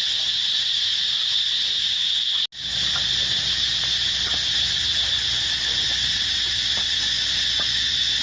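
A steady, high-pitched insect chorus drones on without a break. It drops out for a moment about two and a half seconds in, and a few faint knocks sound after that.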